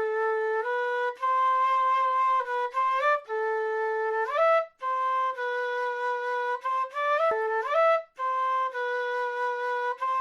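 South American flute playing a slow solo melody of long held notes in short phrases with brief gaps between them, several phrases ending in a quick run of rising notes.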